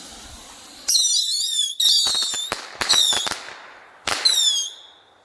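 Bottle rockets launching from a launch pad one after another: four shrill whistles, each well under a second, with sharp pops among them.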